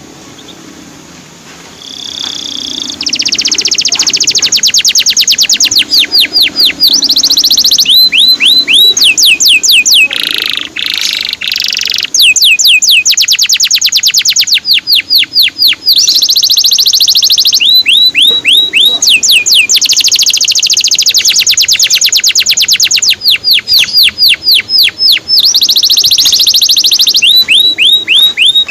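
Male canary singing loudly in long phrases: rapid high trills alternating with series of quick 'cuit' chirps that drop in pitch. The song starts faint and grows loud about three seconds in, with a short lower, raspier phrase around ten seconds in.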